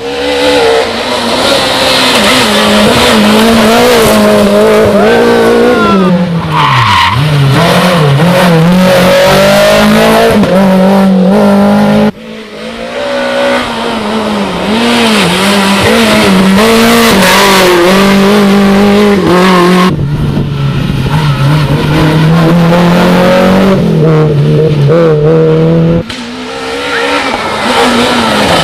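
Rally cars on a special stage at full throttle, one after another in spliced clips that cut abruptly about twelve, twenty and twenty-six seconds in. The engines run hard near the limiter. Around six seconds in the pitch drops sharply and climbs again as a car brakes, shifts down and accelerates away.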